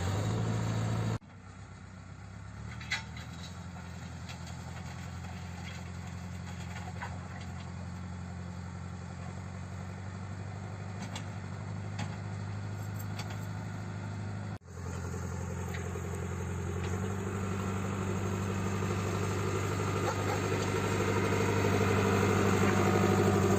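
JCB 3CX backhoe loader's diesel engine running steadily with a low hum. There are two abrupt breaks, about a second in and about 15 seconds in, and the engine grows louder over the last several seconds.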